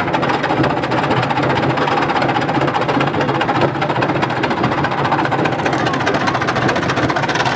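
Washing machine running a spin while on fire, its drum and cabinet giving a loud, steady, rapid rattle and hum.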